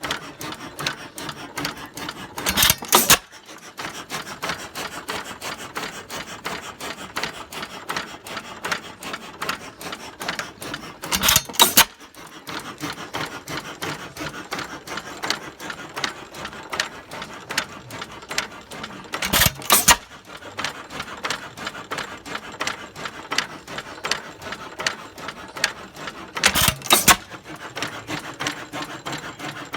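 6 hp Associated single-cylinder hit-and-miss engine running with no muffler: a fast, steady clicking as it coasts, broken four times, about eight seconds apart, by a short loud burst of firing strokes.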